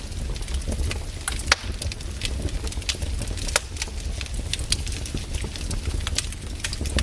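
Wood campfire crackling, with irregular sharp pops and snaps; the loudest pops come about one and a half and three and a half seconds in. A steady low rumble runs underneath.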